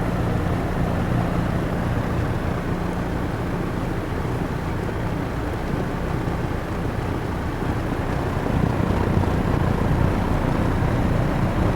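1971 Electrohome 652-1-C 20-inch box fan, a rebrand of the Lakewood P23, running on low: a steady rush of moving air with a low motor hum under it.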